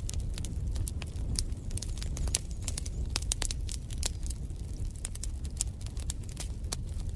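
Wood fire burning in a fireplace, with many irregular sharp crackles and pops over a steady low rumble of the flames.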